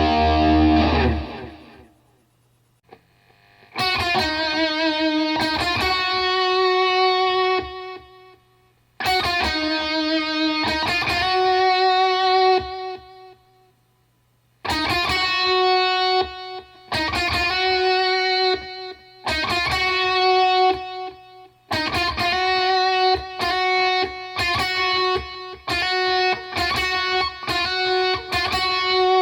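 Unaccompanied electric guitar playing a rock solo. A held chord rings out and fades in the first two seconds. After a short pause come repeated phrases of sustained lead notes, with brief silences between them.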